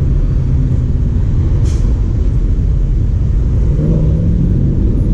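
Road traffic: car engines running past, a steady, heavy low sound, with a brief hiss a little under two seconds in.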